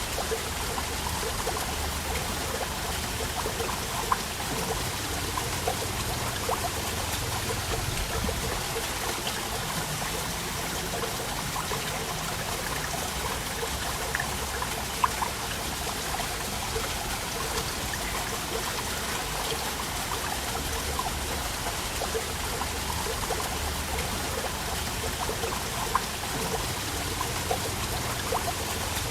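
Waterfall: water falling and splashing steadily, with a trickling sound and an occasional sharper splash or drip standing out.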